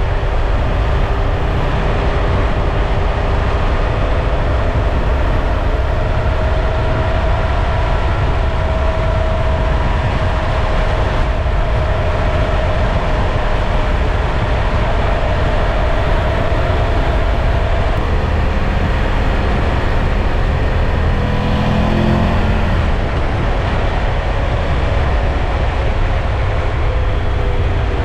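Triumph Tiger 1200 Rally Pro's three-cylinder engine running under way, mixed with steady heavy wind and road noise. The engine note holds fairly even, then wavers and changes pitch about two-thirds of the way through.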